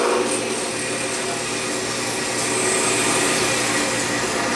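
Drill press running steadily while its bit drills a hole through 1/8 inch aluminum diamond plate, a constant motor hum under a cutting hiss.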